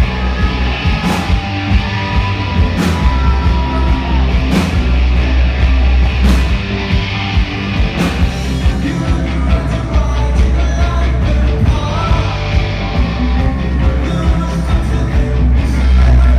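Live rock band playing loud, with heavy bass, drums and sung vocals. The drumming gets busier about halfway through.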